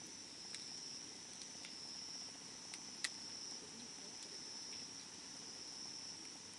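Campfire crackling with a few scattered sharp pops, the loudest about three seconds in, over a steady high-pitched chirring of crickets.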